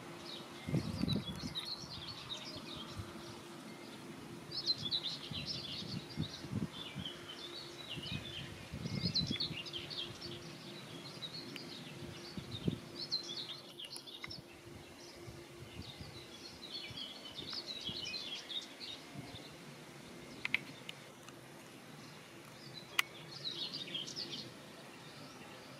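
Songbirds singing in repeated short bursts of chirps, over a faint steady hum and occasional low rumbles.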